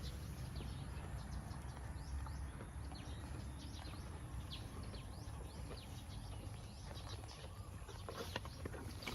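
A cow grazing on pangola grass: repeated tearing and chewing clicks, more of them near the end, with small birds chirping in short falling notes over a steady low rumble.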